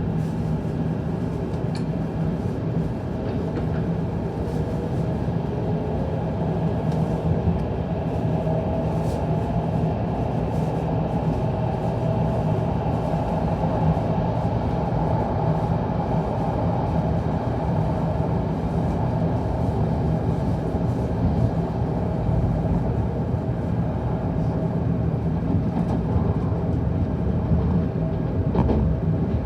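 Tokaido Shinkansen train running and gathering speed just after departure, heard inside the passenger car: a steady rumble and rush with a faint tonal hum above it.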